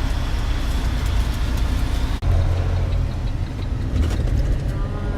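A truck driving: a steady low rumble of engine and road noise. It breaks off abruptly about two seconds in and comes straight back a little louder.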